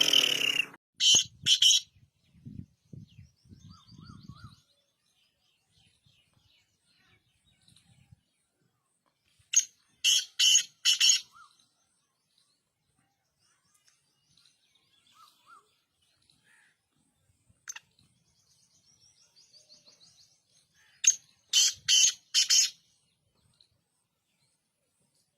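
Black francolin calling: a phrase of four or five short, loud notes in quick succession, given three times about eleven seconds apart. Faint chirps of other birds come in between.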